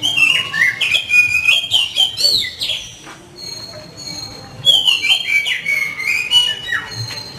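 Oriental magpie-robin (kacer) in full song, loud varied whistled phrases with quick glides and jumps in pitch. The singing comes in two bursts, the second starting about four and a half seconds in.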